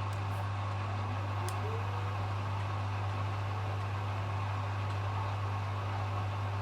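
Hoover HW411AMC washing machine running in its final spin cycle: a steady hum and whir, with a motor whine that rises about a second in and then holds steady as the drum picks up speed.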